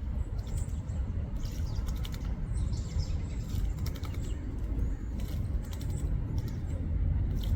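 American robin bathing, fluttering its wings and splashing water in short spells, over a steady low rumble.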